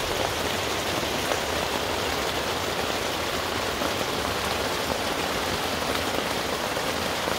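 Heavy rain falling on a nylon tent with a tarp over it, heard from inside the tent as a dense, steady hiss of drops.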